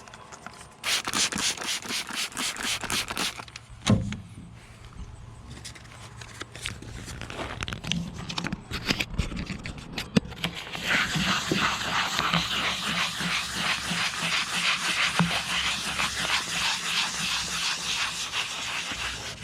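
Hand wet sanding of the painted aluminium hull with 1200-grit wet sandpaper: rapid back-and-forth rubbing strokes, in a short burst near the start and then steadily through the second half.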